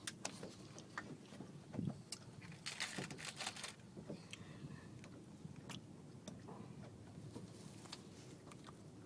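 A person chewing and crunching a crisp Kellogg's breakfast food close to the microphone, in irregular crunches that are busiest a few seconds in.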